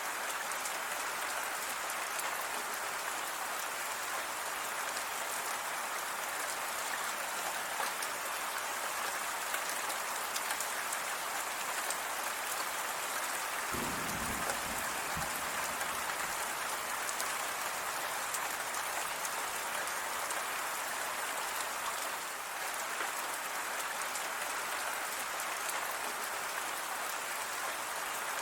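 Steady rain falling, a continuous hiss with many small drops ticking on surfaces.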